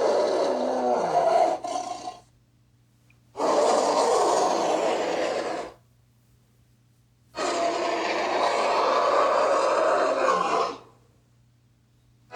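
Lion roar sound effects: a roar that fades out about two seconds in, then two more roars of about two and three and a half seconds, with short silences between them.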